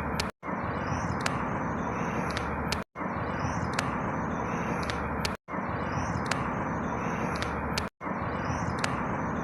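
Steady rushing outdoor background noise with a few high bird chirps over it. The same short stretch repeats about every two and a half seconds, with a brief cut to silence between repeats.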